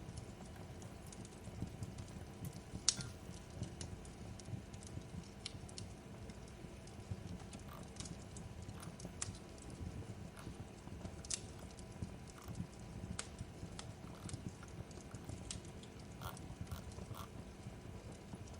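Wood fire crackling in a fireplace: a steady low rumble with scattered sharp pops, the loudest about three seconds in.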